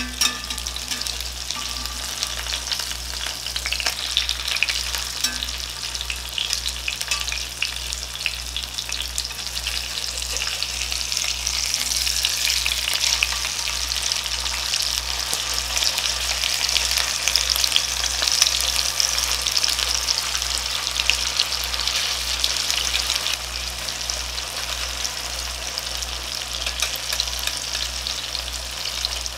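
Firm tofu slices frying in oil in an enamelled cast-iron pan: a steady, crackling sizzle that grows louder partway through, while the slices are turned over with a metal fork.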